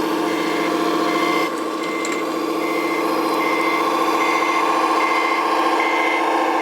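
Reversing beeper of an RC model truck's sound module, a single high beep repeating a little more than once a second, over the module's steady truck-engine sound.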